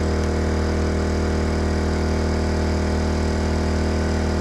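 Portable generator engine running steadily at constant speed: an even low hum with many overtones above it.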